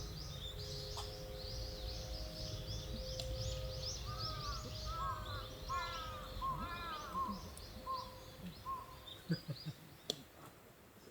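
Many small birds calling at once in short high chirps, with a run of lower, repeated falling calls in the middle. A low rumble underneath fades away near the end, with a few soft knocks.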